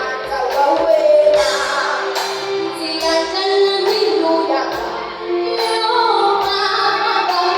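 A song performed with children's and women's voices singing over backing music with a regular beat.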